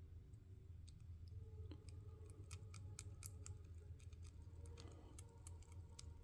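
Faint, irregular light clicks and ticks of a small metal torch tip cleaner working through a lawnmower carburetor's fuel passages, over a low steady hum.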